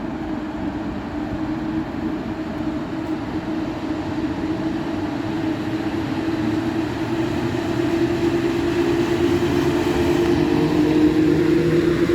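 Passenger train running on the line, a steady rumble with a humming tone that creeps up in pitch. It grows louder toward the end, with a second, higher whine rising in over the last couple of seconds.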